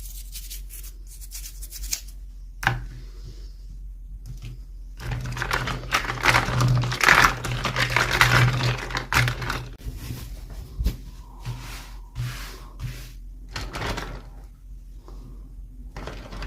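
Hands handling toy packaging: scattered sharp clicks and a few seconds of dense rustling in the middle, over a low steady hum.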